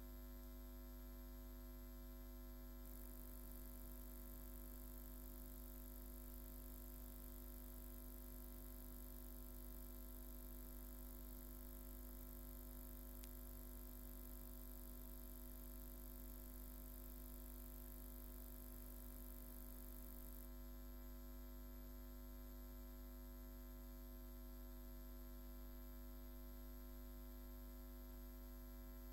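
Faint steady electrical hum: a low drone with several steady tones above it, and no speech. A faint high hiss joins a few seconds in and drops away about two-thirds of the way through.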